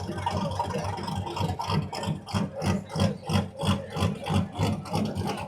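Loud car engine running with a rhythmic lope, pulsing about three times a second.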